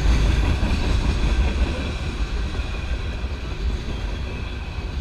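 CSX freight train's open-top hopper cars rolling past close by: a steady, loud wheel-on-rail rumble that eases slightly over the seconds.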